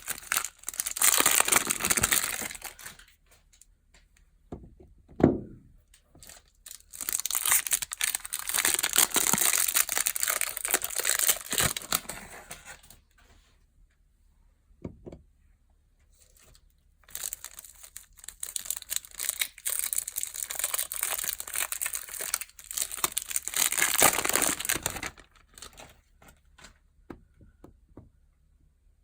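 Packaging crinkling and tearing as soap bars are unwrapped, in three long spells with quieter gaps between them; a short sound slides down in pitch about five seconds in.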